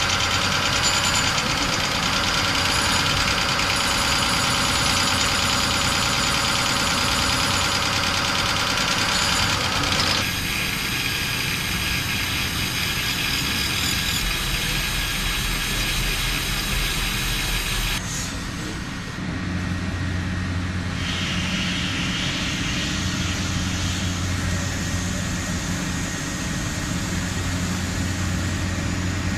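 Heavy industrial machinery running steadily, with the sound changing abruptly about ten seconds in and again near eighteen seconds in as one machine gives way to another.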